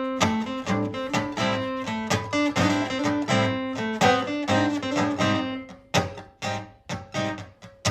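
Martin GPCPA4 acoustic-electric guitar played through a looper pedal: strummed and picked chords over bass notes. The playing thins to a few separate single notes about six seconds in.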